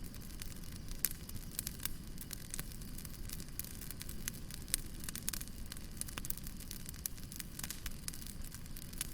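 Wood fire burning with a steady low rumble and irregular crackles and pops, a few louder snaps among many small ones.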